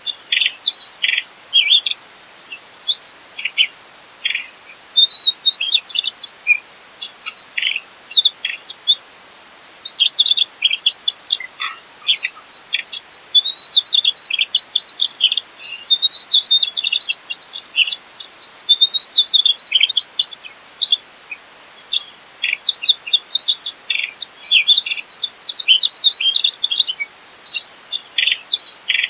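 Mugimaki flycatcher singing a fast, nearly continuous string of high chirps, trills and quick whistled sweeps, broken only by brief pauses.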